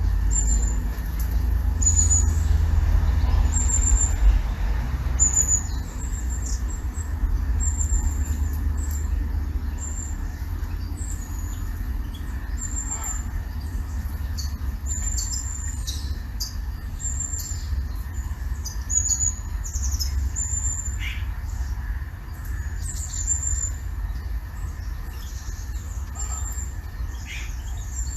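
Small birds giving short, high, thin chirps again and again at an uneven pace, over a steady low rumble.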